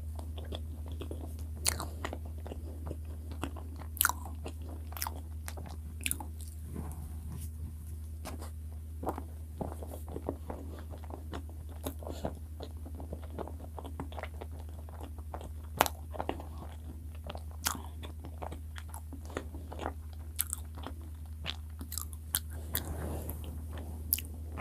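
Close-miked chewing of soft cream-filled bread: wet mouth clicks and smacks at irregular intervals, over a steady low hum.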